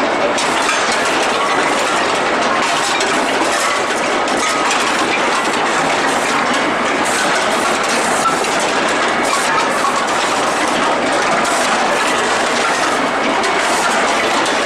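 Steady, loud running noise of a steel bar heating and forging production line, with a continuous metallic rattle and clatter.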